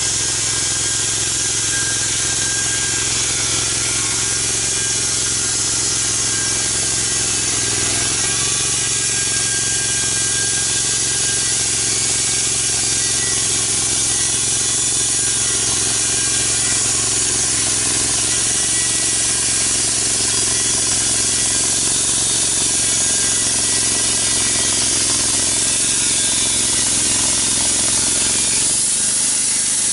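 Engine-driven saw milling a large log. The engine runs steadily under load under a constant hiss of cutting, its pitch dipping briefly about eight and eighteen seconds in.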